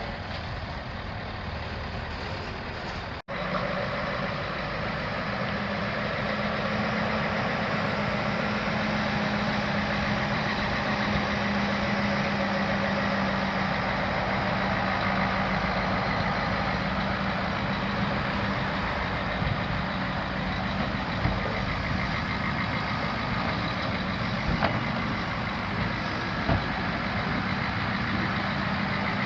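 Diesel engine of a heavy-haulage transport vehicle running steadily with a low droning tone. The sound breaks off for an instant about three seconds in, then continues, with a few light knocks near the end.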